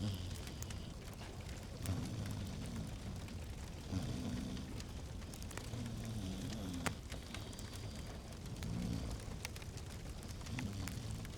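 Wood fire crackling in a fireplace, with scattered sharp pops over a low, steady rumble.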